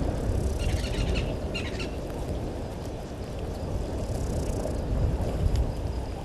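Outdoor bush ambience: a loud, uneven low rumble with no pitch, and a few quick bird chirps during the first two seconds.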